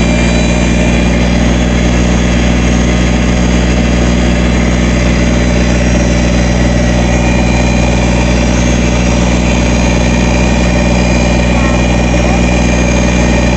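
Backhoe's diesel engine idling steadily, with an even, unchanging pitch.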